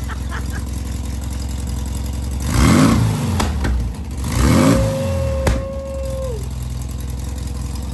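Rebuilt 1970 VW Beetle air-cooled flat-four engine running at idle, revved twice about a second and a half apart, each rev rising and falling back to idle.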